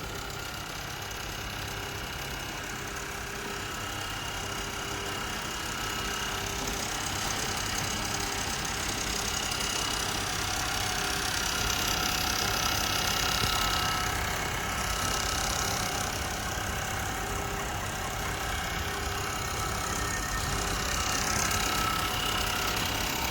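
Computer-controlled nylon zipper sewing machine running automatically, a steady mechanical run that grows gradually louder.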